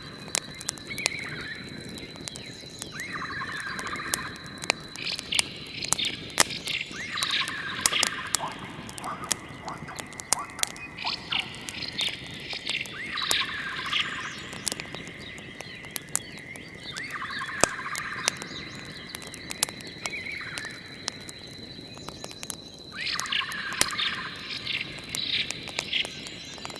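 Wood fire crackling with frequent sharp pops, over a steady thin high tone and a call of about a second, repeated about seven times.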